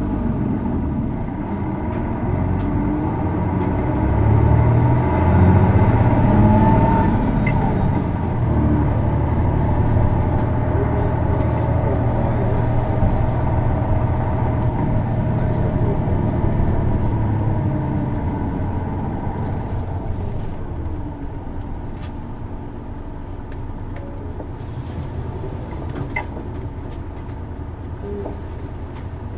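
Isuzu Erga city bus's diesel engine heard from inside the cabin, pulling hard with a rising pitch a few seconds in, running strongly, then easing off and quietening in the second half. This bus's engine is known for a distinctive abnormal noise under load.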